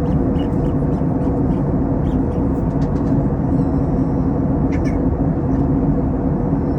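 Steady cabin noise inside an Airbus A321 in flight: a constant rumble of the engines and airflow with a steady low hum. A faint brief click comes about five seconds in.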